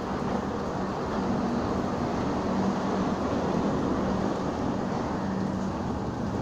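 Air-conditioned LHB passenger coaches of an Indian Railways train rolling past at low speed: a steady rumble of wheels on rails with a low, even hum.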